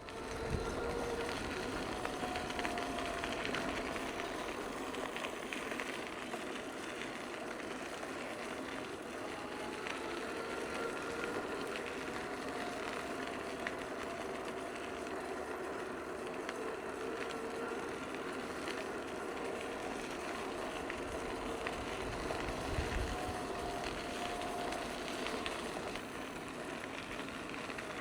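Bicycle riding along a trail: a steady rumble of tyres and drivetrain on the path, with scattered small clicks and rattles and faint wavering tones.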